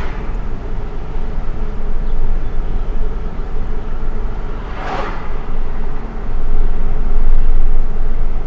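Road and tyre noise of a Chevy Bolt electric car driving along a street while towing a trailer, heard from inside the cabin: a steady low rumble with no engine note. A brief whoosh rises and falls about five seconds in, and the noise grows louder near the end.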